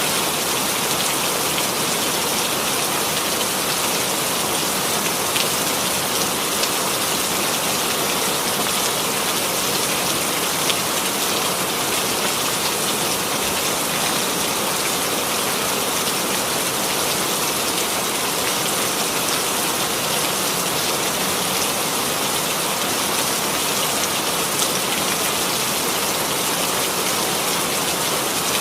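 Steady rainfall, a dense even hiss of rain with scattered individual drops landing on a surface.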